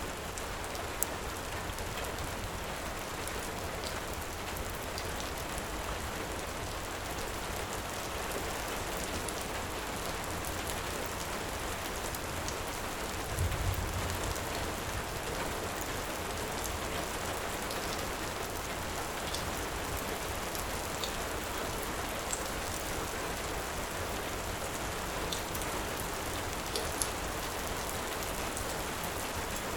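Heavy rain falling steadily, with sparse sharp crackles from a wood fire scattered through it. A brief low rumble comes about halfway through.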